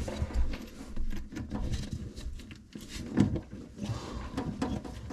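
Irregular knocks, clicks and clatter of tools and plumbing parts being handled during a faucet installation, with a few heavier knocks about three seconds in.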